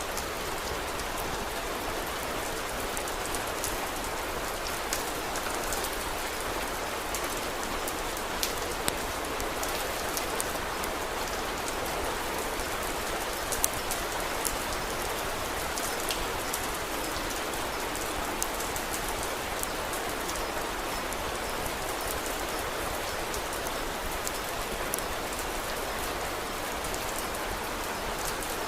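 Steady rain, with scattered sharp ticks and pops throughout.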